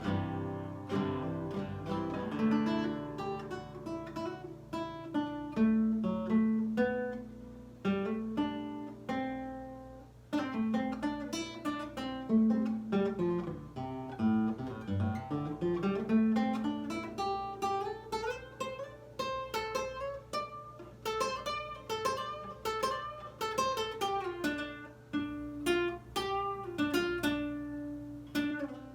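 Nylon-string acoustic guitar made by Lyle, played solo: fingerpicked melody over ringing bass notes, with a run of notes that falls and then climbs back up about halfway through.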